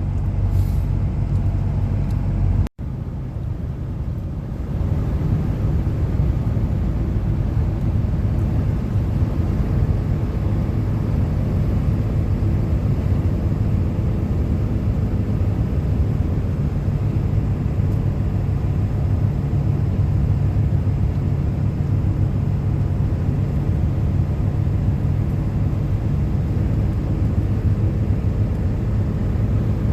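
Steady low road rumble of a car driving, heard inside the cabin, with a momentary break in the sound about three seconds in.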